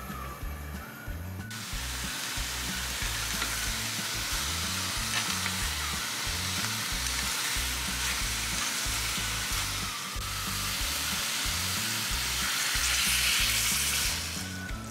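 Chicken and vegetables sizzling as they fry in a pan on the stove while being stirred with chopsticks. The sizzle starts about a second and a half in, grows louder near the end, then stops suddenly.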